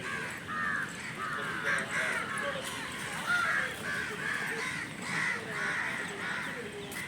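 A flock of crows cawing together, many harsh calls overlapping in a continuous chorus.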